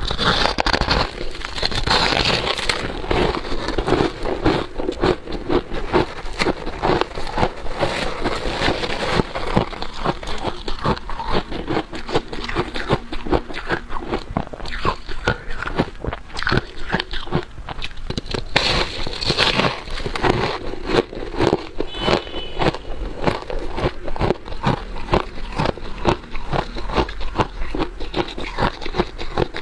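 Freezer frost and ice being bitten and chewed close to the microphone: a continuous run of dense crunching and crackling.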